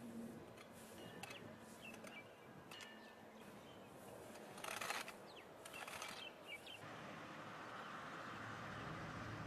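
Quiet outdoor ambience with scattered bird chirps. A brief rush of noise about halfway through is the loudest moment, and a faint steady hiss sets in near the end.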